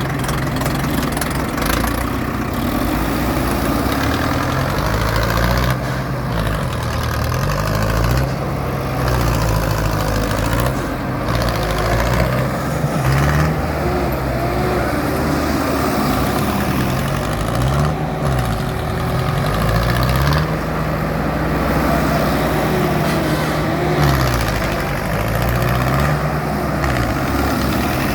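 Diesel tractor engine being revved up and down again and again, its pitch rising and falling every couple of seconds over a steady running note.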